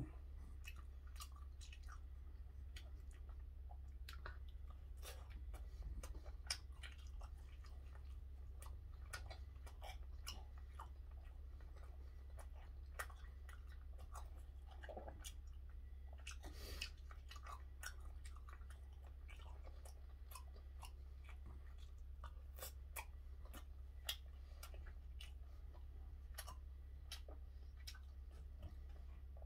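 Close-up chewing of gwamegi (half-dried fish) wrapped in seaweed, with many small scattered clicks and crunches of eating and wooden chopsticks, over a steady low hum.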